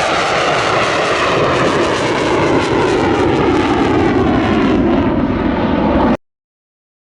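A jet aircraft flying past, loud, its pitch falling slowly, then cutting off abruptly about six seconds in.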